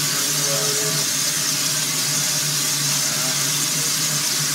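Russell steam traction engine hissing steadily while raising steam, with a low steady hum beneath the hiss.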